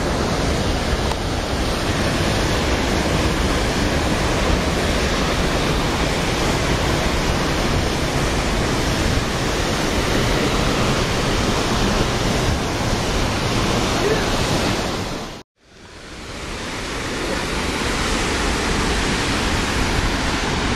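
Steady loud rushing of water at a dam. It cuts out abruptly for a moment about fifteen seconds in, then fades back up.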